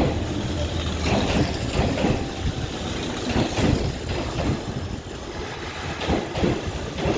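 Hanshin Railway electric train running past close alongside a station platform: a steady rumble of wheels and running gear with scattered knocks from the wheels on the rail joints.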